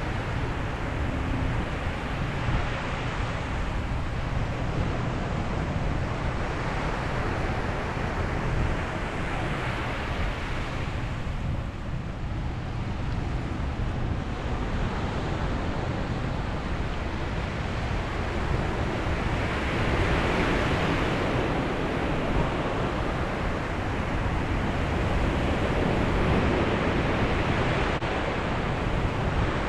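Sea waves breaking and washing on a beach, in slow swells that rise and fall every several seconds, with a low rumble of wind on the microphone underneath.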